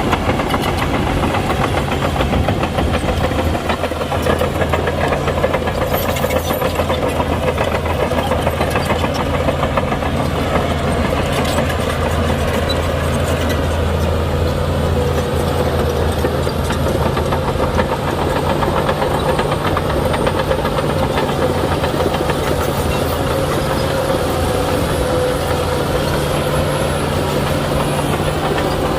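Shantui heavy bulldozer working, its diesel engine running steadily with a dense, continuous clatter of the steel tracks.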